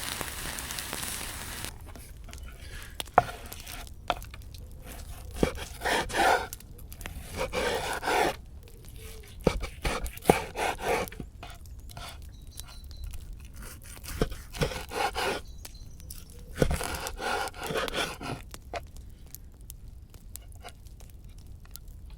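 Cutlery scraping and clicking in several short bursts as cooked ribeye steak is cut up to eat. A frying sizzle cuts off about two seconds in.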